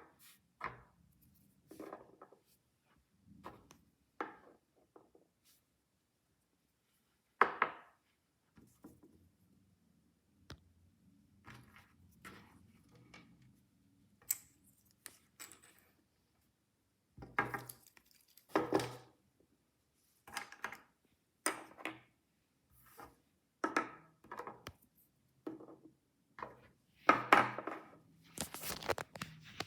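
Hands handling miniature toys and their packaging: scattered taps, clicks and short rustles, busier near the middle and toward the end.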